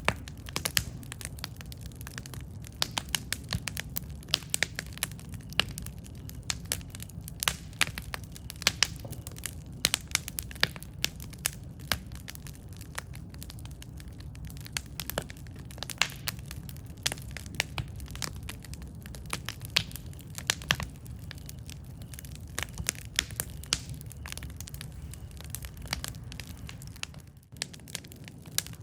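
Wood campfire burning, with a steady low rumble and frequent irregular sharp crackles and pops from the burning wood. The sound dips briefly near the end.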